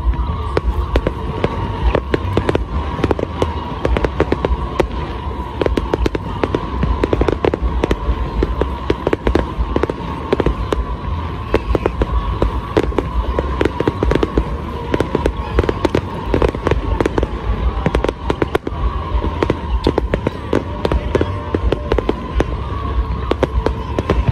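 Fireworks display: a rapid, continuous string of bangs and crackles over a deep rumble, with a steady high tone running underneath.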